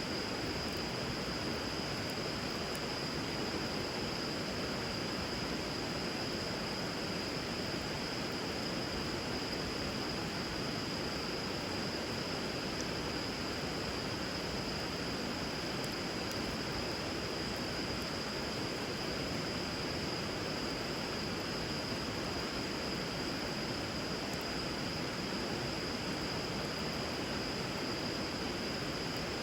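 Steady rush of flowing river water, with a steady high-pitched tone over it and a few faint crackles from a bonfire burning on the water.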